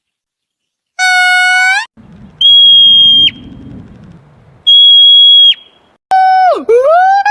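A string of animal calls: a short nasal honk about a second in, then two high, steady whistles that dip at their ends, then from about six seconds quick calls that swoop down and back up in pitch, several a second.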